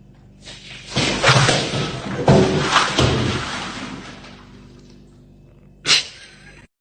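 A quick run of heavy thumps and clattering knocks lasting about two and a half seconds, then one short knock near the end.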